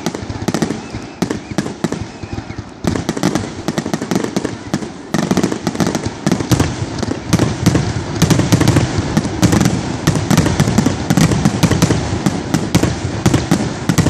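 Fireworks going off in a dense, rapid run of pops, bangs and crackles, with hardly a gap between reports, growing busier and louder about five seconds in.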